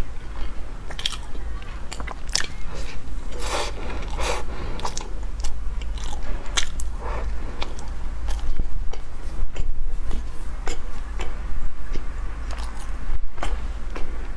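Close-miked chewing and biting of flaky salted egg yolk pastry, an irregular stream of small crackles and clicks from the mouth, over a low steady hum.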